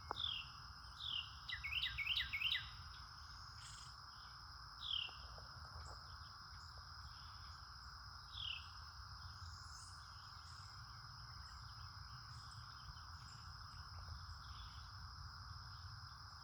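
A songbird calling in clear down-slurred notes, a few each second at first, a quick run of doubled notes about two seconds in, then single notes around five and eight seconds in. Insects keep up a steady high drone throughout.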